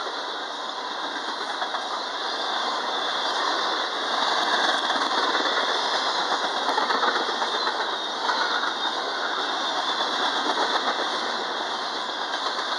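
Double-stack container well cars of a freight train rolling past: steel wheels running on the rails in a steady rushing noise that swells a little in the middle.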